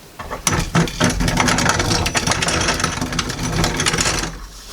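Grain mill running for about four seconds, its auger pulling wheat grains through the grinding plates with a dense rattling clatter that stops abruptly near the end. The plates are set too slack, so the grains pass through largely whole.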